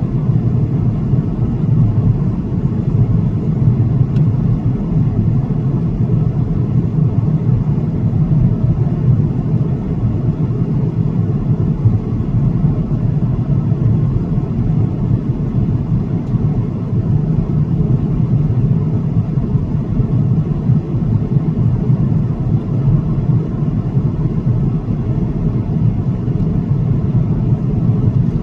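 Steady low rumble of an Airbus A330-900's Rolls-Royce Trent 7000 engines and airflow, heard from inside the passenger cabin in flight.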